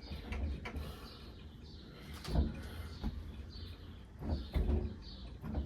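Scattered knocks and scrapes as a vintage box fan's blade hub is handled and slid onto the motor shaft. The loudest knocks come about two and a half seconds in and again around four and a half seconds.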